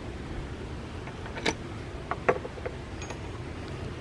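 A few light metal clicks and knocks as tools and the bronze back cap are handled at the vise, three clearest ones between about one and a half and three seconds in, over a low steady hum.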